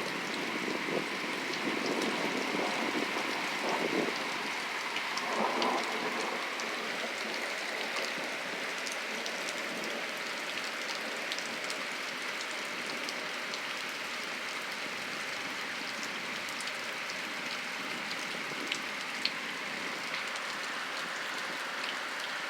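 Steady rain hissing down, with scattered drops ticking on a surface. A lower rumble swells and fades out over the first six seconds.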